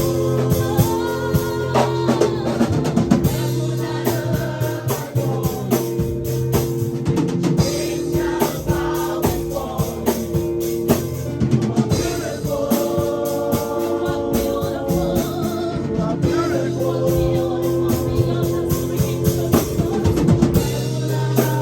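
Live gospel worship music: voices singing over a drum kit and band, with held notes sustained underneath and a steady drum beat.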